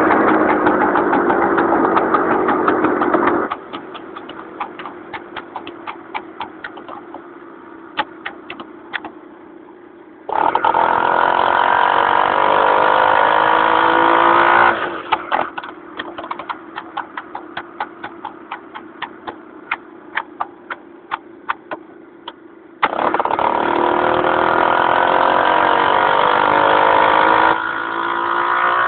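Honda Cub's small single-cylinder four-stroke engine revved and held for several seconds three times, each time dropping back to a low, uneven running broken by irregular sharp pops. This is the misfire the bike is being shown for.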